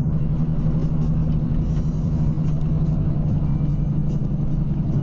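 A vehicle cruising at highway speed: a steady, even drone of engine and tyres with a low hum, heard from inside the cab.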